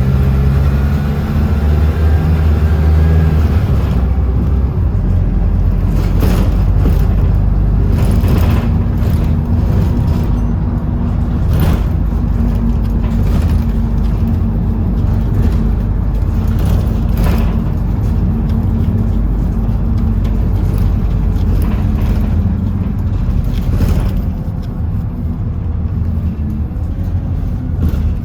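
Bus engine and drivetrain heard from inside the moving bus, the engine pitch shifting through gear changes for the first few seconds, then a steady low rumble broken by several brief knocks and rattles.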